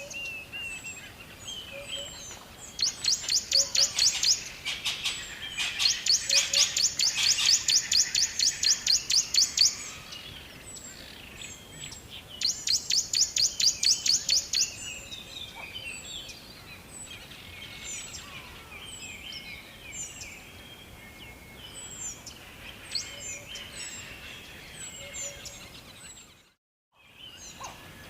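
Songbirds chirping. One bird repeats a rapid series of high chirps in three bursts of a few seconds each, then many short, falling chirps from other birds carry on more softly. The sound cuts out briefly near the end.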